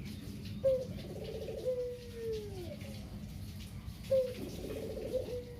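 Caged puter dove cooing twice, about three and a half seconds apart. Each coo opens with a sharp note, rolls into a quick stutter, then ends in a long falling note: the repeated 'kugeru' coo of a male puter.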